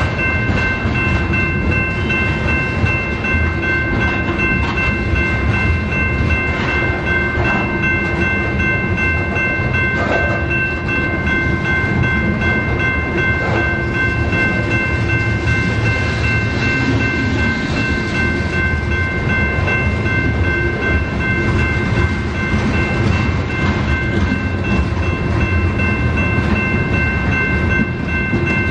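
BNSF freight train rolling past, its cars rumbling steadily on the rails, with several steady high-pitched tones held over the rumble throughout.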